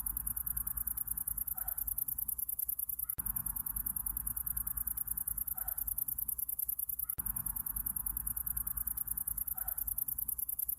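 Summer-night insect chorus: a dense, very high, fast trill running without a break over a low rumble, with a short faint call recurring about every four seconds as the recording loops.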